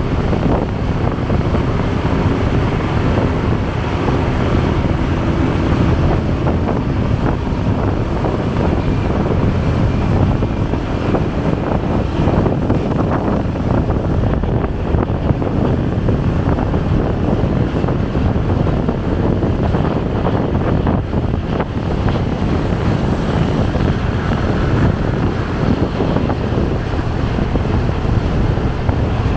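Wind buffeting the microphone of a moving motorcycle, a steady rush with the motorcycle's engine and road traffic underneath.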